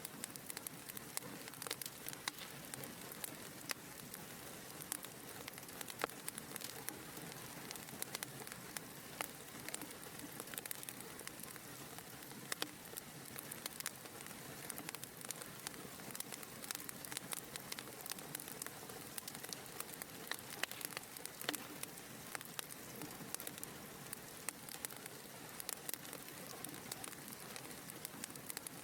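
Wood fire in a fireplace crackling: an irregular stream of sharp pops and snaps over a steady soft hiss of burning.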